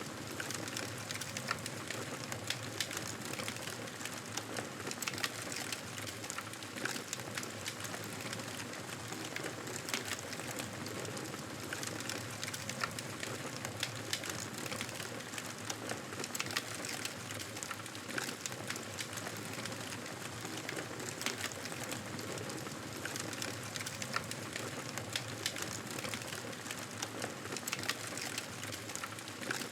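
Campfire burning: a steady hiss with many small, irregular crackles and pops.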